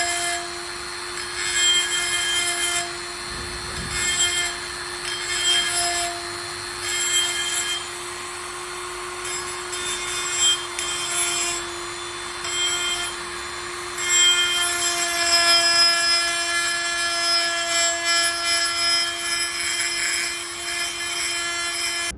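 Die grinder with a stone tip, its motor giving a steady whine, grinding down a scratch in a chrome-plated roller to prep it for brush plating. The grinding noise swells and eases in strokes about every second and a half, and gets louder and harsher in the last third.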